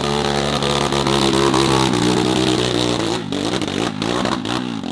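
Dirt bike engine running hard at high revs on a hill-climb slope. About three seconds in, the revs drop and waver up and down, with a few sharp clatters.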